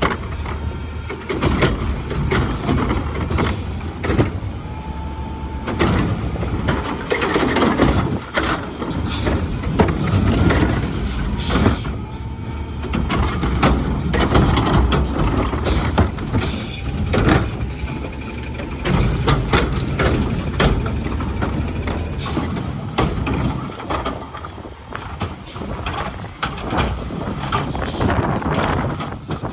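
Garbage truck working close by: its diesel engine running under repeated metal clanks and bangs, with hisses of its air brakes.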